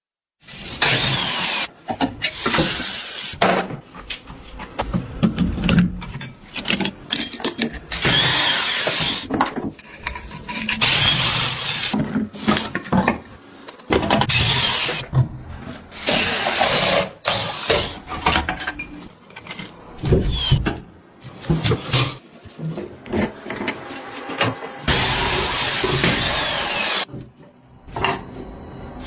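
A quick succession of workshop tool noises, including power-tool work such as drilling, broken up by abrupt cuts and short knocks.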